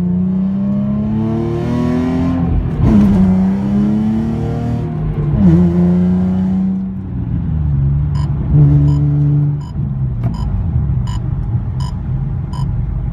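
Infiniti G35's 3.5-litre V6, running without catalytic converters through straight downpipes, accelerating through the gears. The pitch climbs, drops at upshifts about three and five and a half seconds in, then holds steadier. A regular ticking joins in the second half.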